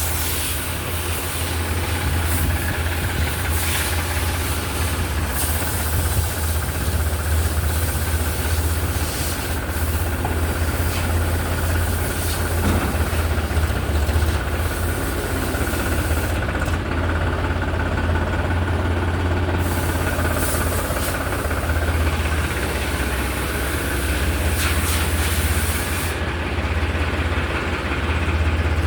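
Diesel engine of a Powertrac Euro tractor running steadily with a low, even rumble.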